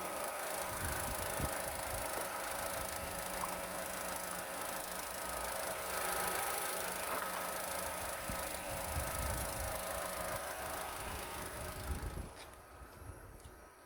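Opel Corsa D's 1.2-litre A12XER petrol engine running steadily during an engine test. It stops suddenly about twelve seconds in.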